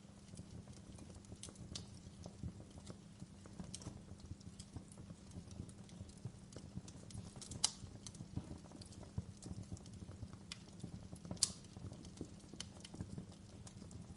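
Wood fire crackling in a fireplace: a steady low rumble of burning logs with frequent small snaps, and two louder sharp pops, one a little past halfway and one about three-quarters of the way in.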